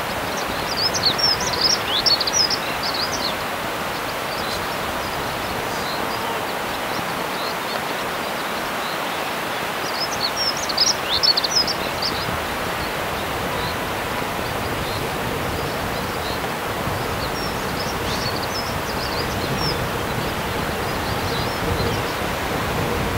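Steady outdoor background hiss, with a small bird singing three short phrases of high chirps: about a second in, around ten seconds in, and again near eighteen seconds.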